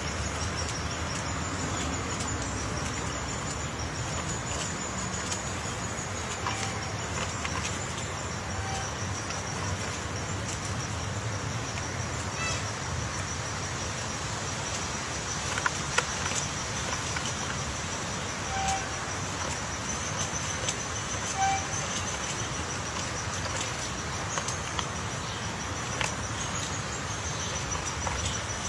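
Outdoor ambience with a steady, high-pitched insect drone, a few short single notes and occasional sharp clicks.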